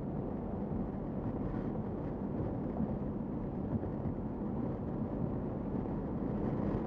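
Steady low rumble of a vehicle in motion, with wind noise on the microphone.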